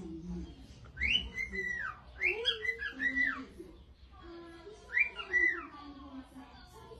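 A pet bird whistling a short rising-and-falling phrase, three times, about a second in, two seconds in and five seconds in.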